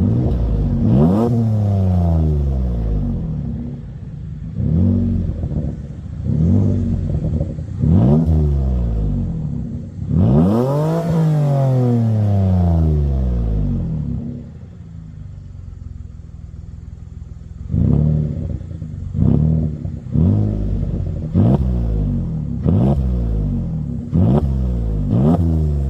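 A Toyota Sienna's 3.5 L V6 with its muffler deleted (the factory resonator kept) being revved over and over, each rev falling back toward idle. One longer, higher rev comes about ten seconds in. After a few seconds of near-idle, a quick run of short throttle blips follows near the end. The exhaust is loud.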